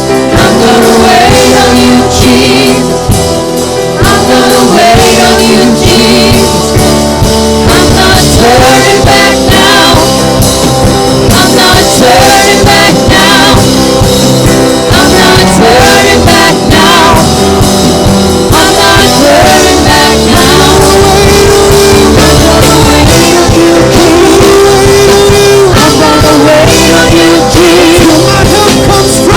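Live praise and worship music: a band with guitar playing under singing voices.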